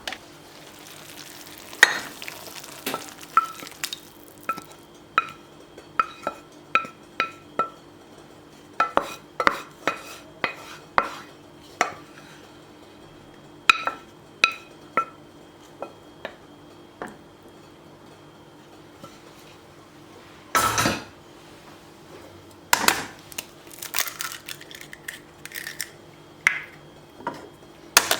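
Metal utensil clinking and tapping against a bowl or dish while stirring, in runs of ringing clinks about half a second apart. About 21 s in there is one longer scraping rush. A faint steady hum sits underneath.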